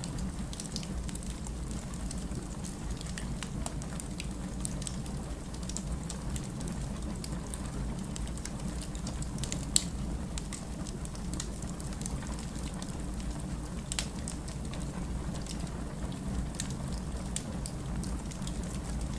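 Wood fire burning in a fireplace: a steady low rumble of the flames with scattered crackles and a few sharper pops.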